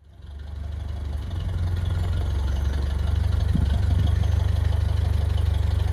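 1913 Leyland S3 bus's four-cylinder 5.2-litre petrol engine idling steadily, building up over the first second or so.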